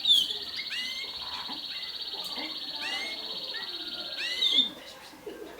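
Mosaic canary singing a fast, even high trill, with short rising chirps over it; the trill stops shortly before the end.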